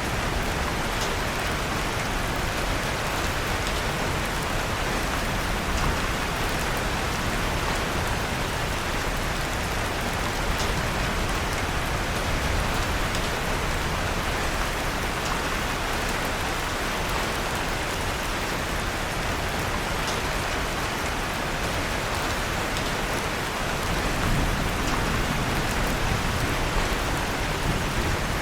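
Steady rain falling as an even hiss, with a few faint crackles of a fireplace fire mixed in now and then.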